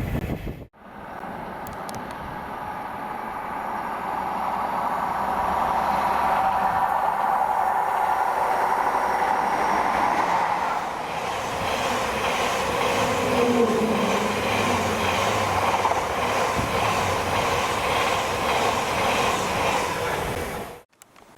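Train running on rails. It grows louder over the first few seconds, then holds steady, with a regular wheel clatter in the second half. It cuts off abruptly near the end.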